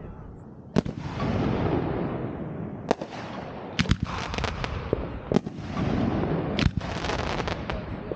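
Fireworks going off: about six sharp bangs a second or two apart, two of them close together near the middle, each trailing off in a fading rush of noise.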